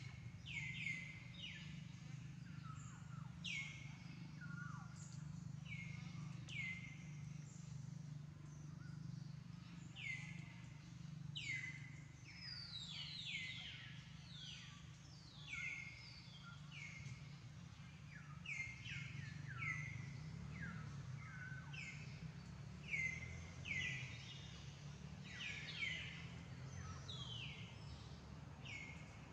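Birds calling over and over, each call a quick falling chirp, with several often overlapping, over a steady low background hum.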